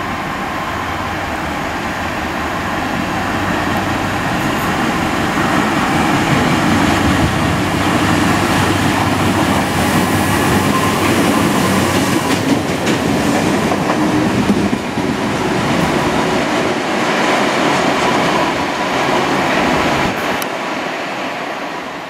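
Colas Rail test train hauled by Class 37 diesel locomotive 37099 running through a station at speed, with the steady rush of wheels on rail. The noise builds over the first several seconds, stays loud as the coaches pass, and fades out near the end.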